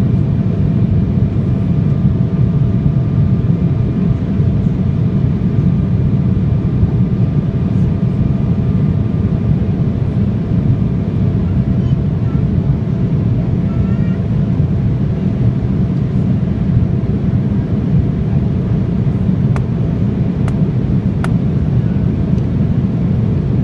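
Embraer 175's twin GE CF34 turbofan engines running steadily at high power, heard from inside the cabin as a loud, even low roar with faint steady whine tones above it.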